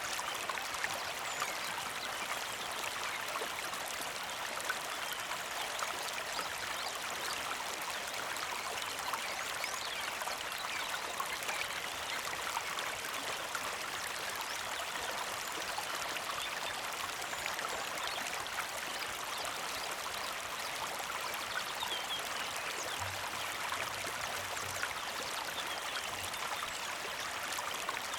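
Small mountain creek flowing steadily, an even trickling and babbling of water over stones with many tiny splashes.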